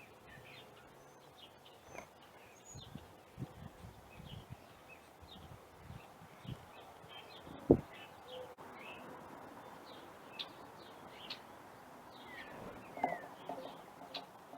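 Small birds chirping, with short, scattered calls throughout and a few low knocks or thumps, the loudest about eight seconds in.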